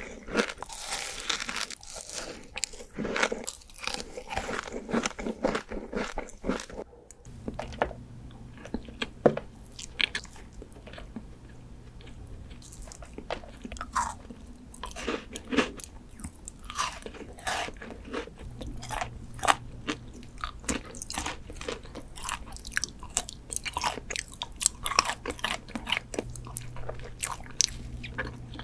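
Close-miked ASMR eating: crunchy bites and chewing of dessert, one sharp crunch after another. About seven seconds in the sound cuts to another eater, with a low steady hum under the chewing from then on.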